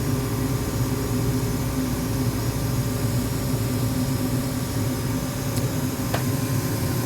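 32-year-old gas furnace running, its blower motor and induced-draft fan giving a steady mechanical hum with a low tone, and a couple of faint clicks near the end.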